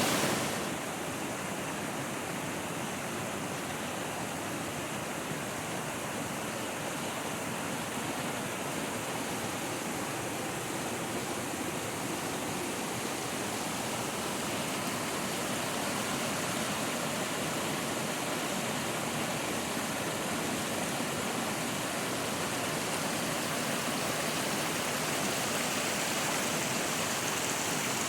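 Steady rushing of flowing water, an even noise that holds without change.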